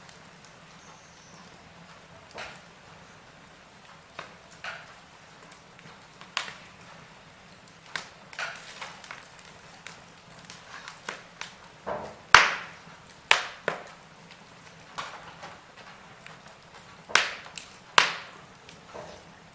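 Wood fire burning in a fireplace, crackling with irregular sharp pops over a faint steady hiss. The loudest pops come about two-thirds of the way through and near the end.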